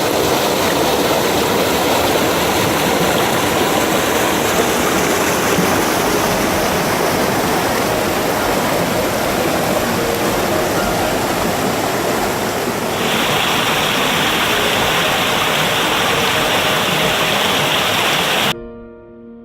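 Waterfall: water rushing and splashing in a steady loud roar of noise. The tone changes abruptly about thirteen seconds in, and the sound stops suddenly near the end.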